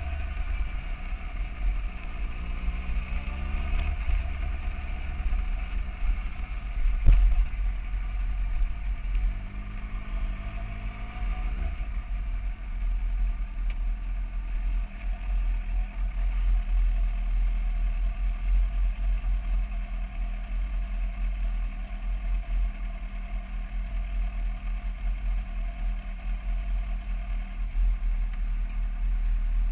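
Motorcycle engine running at low speed: the revs rise and fall a couple of times in the first twelve seconds, then it settles to a steady idle. A heavy low rumble runs underneath, and there is a single knock about seven seconds in.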